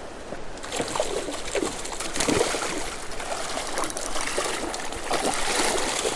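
Creek water running, a steady rushing trickle with scattered small splashes.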